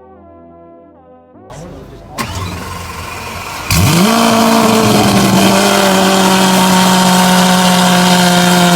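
Soft ambient synth music for the first second and a half, then a Lamborghini Centenario's V12 engine starts up. About four seconds in it revs up sharply and is held at high revs at a steady pitch, loud.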